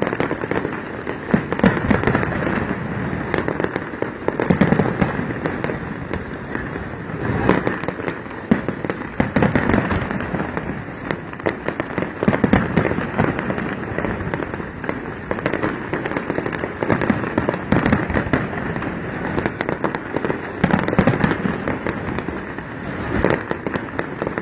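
Aerial fireworks bursting in quick succession without pause: many sharp bangs over a continuous crackle.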